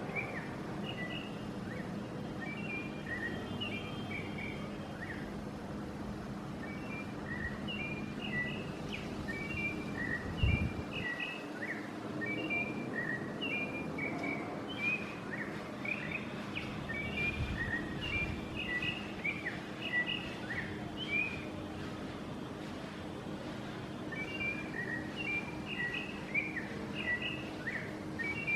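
Bird song the uploader credits to the chonte: a long, continuous run of short whistled chirps and phrases, thinning briefly about three-quarters of the way through, over a steady low hum. A single low thump sounds about a third of the way in.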